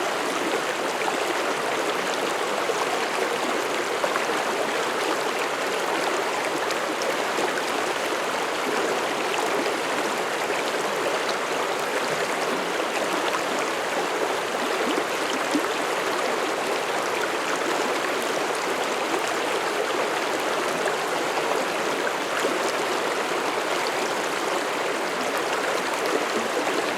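Mountain stream flowing over rocks, a steady rushing and babbling of water with no change throughout.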